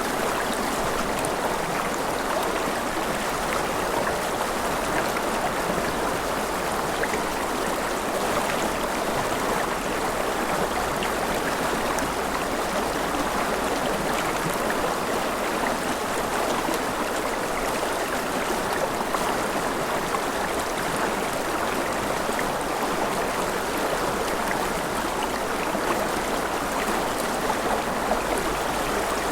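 A river flowing steadily over rocks: an even, continuous rush of water with fine splashing and trickling.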